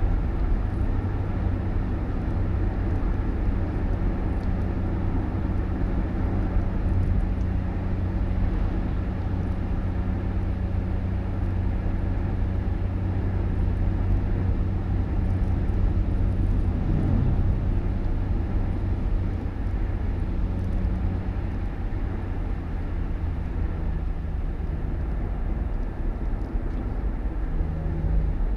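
A road vehicle running steadily: a low engine and road rumble with a steady hum, with a brief shift in pitch about two-thirds of the way through.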